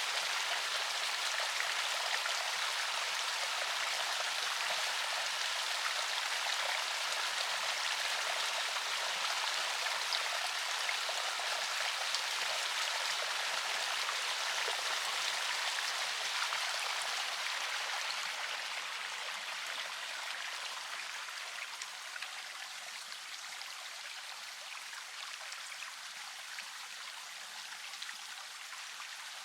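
River water flowing over rocks, a steady rushing splash; it grows somewhat quieter about two-thirds of the way through.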